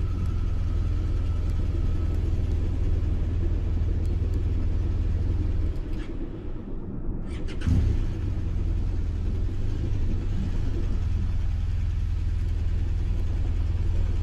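Adventure motorcycle engine running at a steady pace under way, easing off for a moment about six seconds in, with a short knock near eight seconds before it settles back to the same steady drone.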